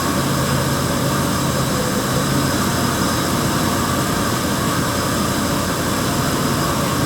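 1999 Dodge Avenger's 2.5-litre V6 engine running steadily. The engine has an intermittent misfire, traced to a crankshaft position sensor set with too wide an air gap.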